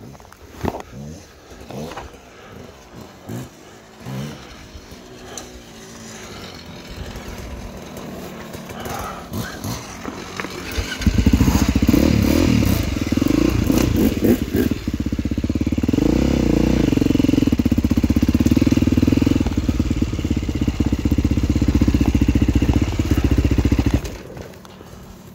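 Dirt bike engine that comes in suddenly about eleven seconds in and runs loudly, then cuts off abruptly near the end. Scattered clicks and knocks come before it.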